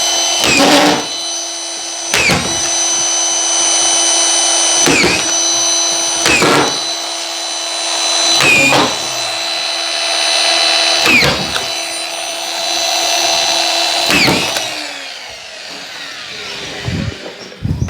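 A power screwdriver runs with a steady whine while drywall screws are driven into a plasterboard ceiling sheet, seven in a row. Each screw is a short sharp crack, and the whine dips briefly as it bites. The motor winds down about 15 seconds in.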